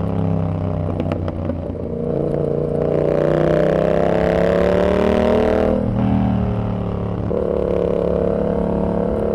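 Yamaha XSR700's parallel-twin engine through a Kelpi full shorty exhaust with standard baffle, pulling with a rising pitch from about two seconds in. Past the middle the note drops abruptly, then settles into a steady run.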